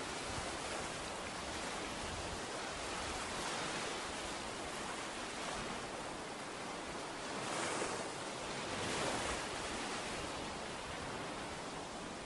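Ocean surf washing onto a beach: a steady hiss of breaking waves that swells several times, most strongly about eight and nine seconds in.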